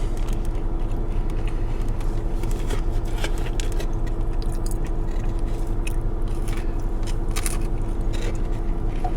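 Biting into and chewing an M&M-topped mini dessert, with irregular short crunches and clicks, most of them in the second half. A steady low hum runs underneath.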